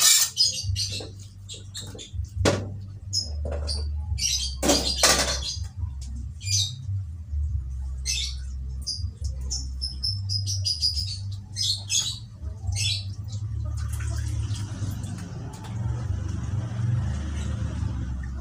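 Small birds chirping in short, repeated calls over a steady low hum. In the first five seconds there are a few sharp knocks and scrapes of a bowl against a metal wok.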